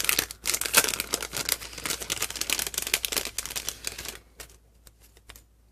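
Packaging rustling and crinkling as hands rummage through a bag of small wooden pieces and craft bits: a dense run of crackles for about four seconds, then a few scattered clicks.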